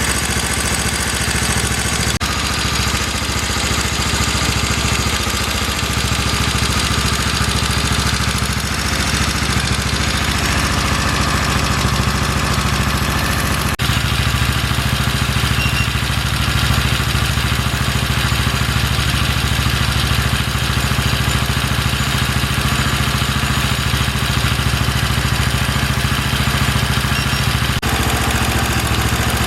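Chinese-made 125cc single-cylinder four-stroke engine (Cub-type clone) running steadily on a bare test bench during its break-in run.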